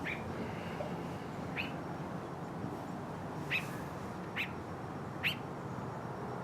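A bird chirping: about five short, sharp chirps, a second or so apart, over steady background noise.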